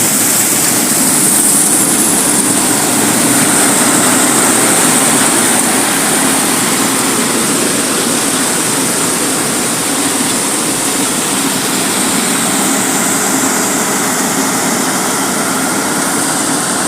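Combine harvester running steadily as it cuts and threshes wheat: a loud, even engine and machinery noise.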